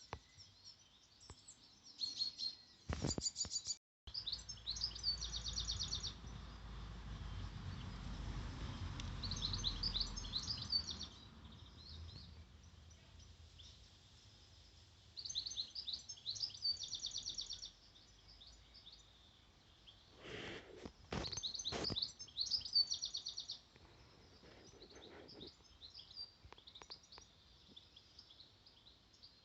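Small songbirds singing: repeated high, rapid trilling phrases, with a low rumble through the first third and a few sharp knocks about two-thirds of the way through.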